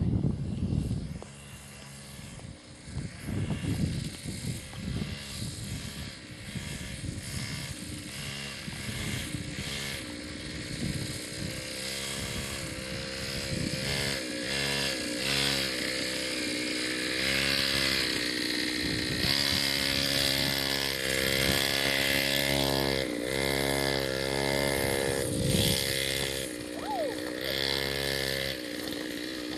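40cc two-stroke mini dirt bike engine being ridden, revving up and down over and over. It grows louder in the second half as the bike comes nearer.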